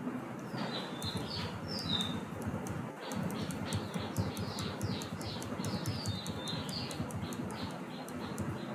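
A small bird chirping over and over in short, high, falling notes. The chirps are sparse at first and come quickly and steadily from about three seconds in, with faint clicks and a steady low background noise beneath.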